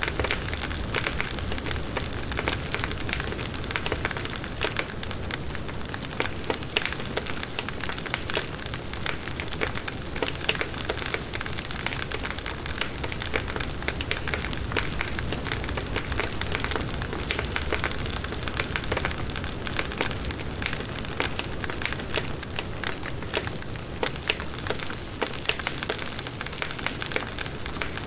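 Firewood burning in a campfire: a steady hiss with dense, continuous crackling and scattered louder pops.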